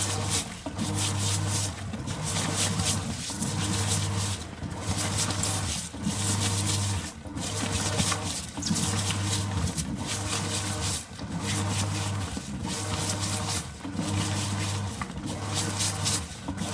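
SANYO sneaker washing machine agitating in its wash cycle: a low motor hum that starts and stops about every second and a quarter as the drive reverses, over a constant churning and scrubbing of the shoes against the brushes in the water.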